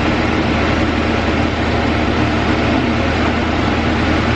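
Steady rumble of vehicle engines and road traffic, with a constant low drone and no breaks.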